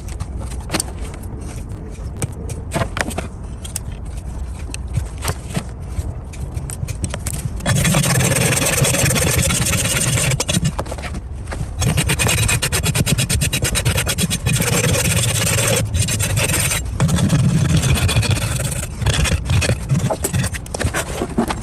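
A hoof being worked down by a trimming tool: quieter scraping and clicks at first, then loud, continuous abrasive scraping from about eight seconds in, broken by two short pauses, easing off near the end.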